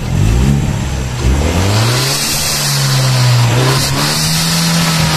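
Hyundai Genesis Coupe 2.0T's turbocharged four-cylinder being revved with the stock panel air filter fitted: two quick rises in revs in the first two seconds, then held at raised revs with a brief dip past the middle.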